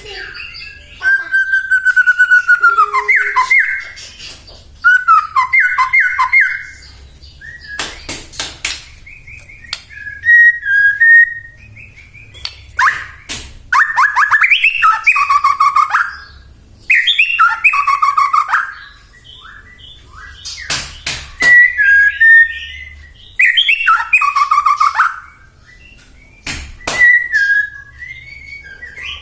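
White-rumped shama singing loud bursts of varied whistled and chattering phrases, about a second or two each, with short pauses between them and a few sharp clicking notes.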